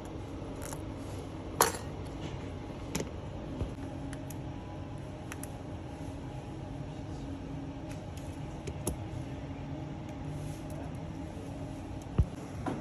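Small clicks and taps of hand tools or parts on a workbench, a few scattered through, the loudest about one and a half seconds in, over a steady low hum.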